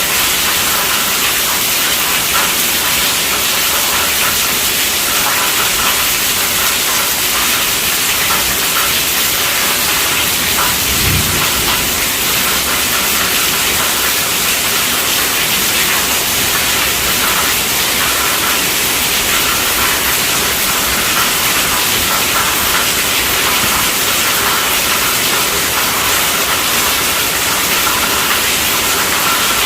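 Heavy rain drumming steadily on a tent roof, an even, dense hiss that does not let up. A brief low thump about a third of the way in.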